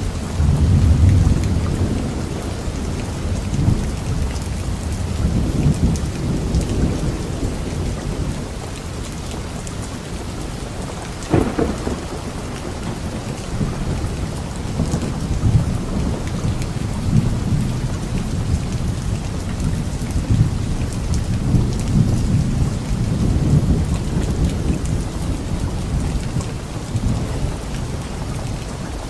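Steady rain falling with thunder rumbling low and rolling through it, heaviest at the start. A sharper thunderclap stands out a little before the middle.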